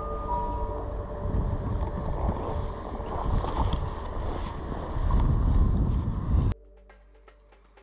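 Strong wind buffeting the microphone in a low, rumbling rush. It cuts off suddenly about six and a half seconds in.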